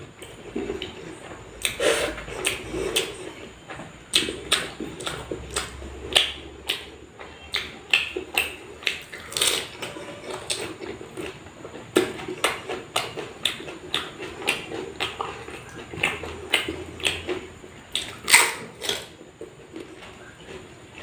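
Close-miked eating: chewing and mouth sounds with irregular sharp clicks several times a second, the loudest about 18 seconds in.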